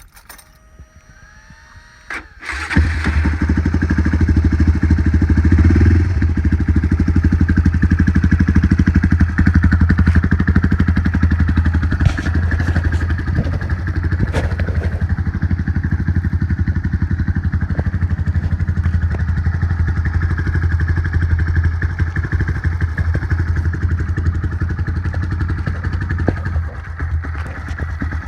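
Honda Grom's 125 cc single-cylinder four-stroke, breathing through an OverRacing exhaust with its baffle removed, starts about two and a half seconds in and settles into a loud, steady idle.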